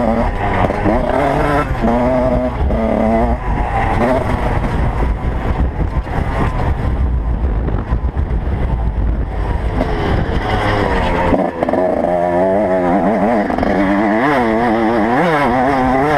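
Motocross motorcycle engines revving, pitch climbing and dropping over and over as the riders work the throttle and shift gears. More than one bike can be heard in the second half.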